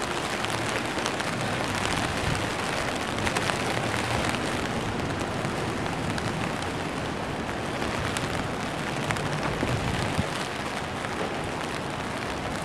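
Steady rain falling on a rooftop, a constant hiss with many scattered drop ticks.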